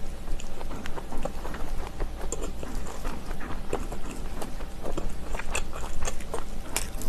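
A person chewing crunchy kimchi close to the microphone, with irregular crunches and wet mouth clicks several times a second over a low steady hum.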